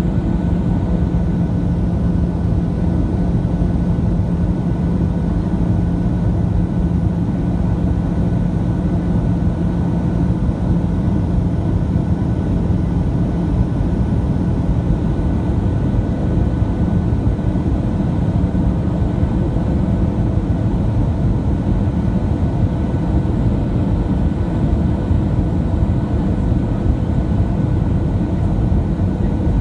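Steady in-flight cabin drone of a Boeing 737-700, engine and airflow noise from its CFM56-7B turbofans. A low hum in it fades out about halfway through.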